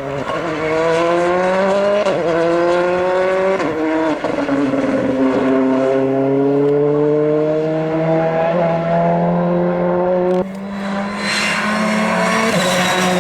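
Rally car accelerating hard through the gears, its engine note climbing with quick drops at upshifts about two, three and a half and four seconds in, then one long pull. About ten and a half seconds in it lifts off and a rush of tyre and road noise rises as it goes by.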